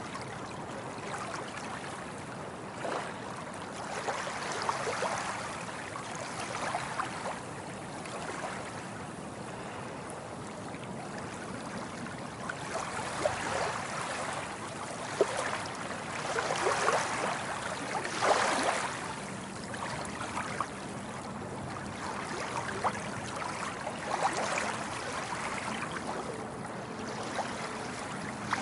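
Small waves lapping and splashing, the water rising and falling in irregular surges, the strongest about two-thirds of the way through.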